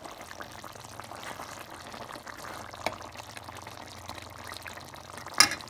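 Thick stew gravy simmering in an uncovered pot, bubbling with many small pops, and a single sharp clink about five seconds in.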